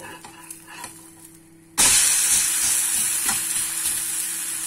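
An onion uttapam flipped onto a hot tawa, onion topping side down: a sudden loud sizzle starts a little under two seconds in and keeps going steadily as it fries.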